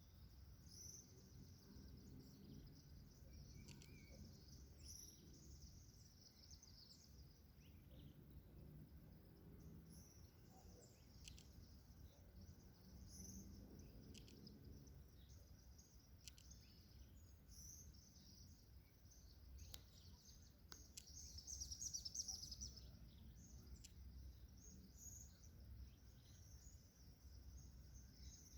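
Small birds chirping faintly, short high calls scattered throughout and thickest about two-thirds of the way in, over a low steady background rumble.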